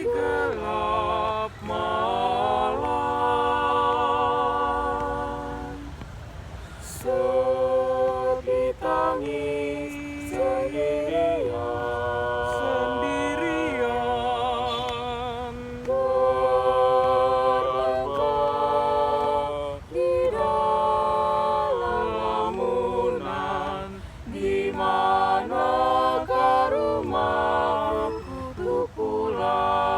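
Unaccompanied a cappella singing: long held notes with vibrato, in phrases separated by short breaths.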